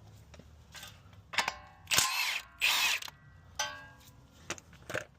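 Impact wrench with a 21 mm socket, run in two short bursts about two seconds in, spinning off a steering joint's nut. Shorter metallic clanks with a brief ring come just before and after.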